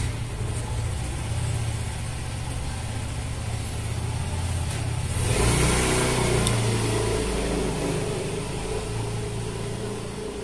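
Honda New Mega Pro's single-cylinder engine running, revving up about five seconds in and then easing back while still running fast.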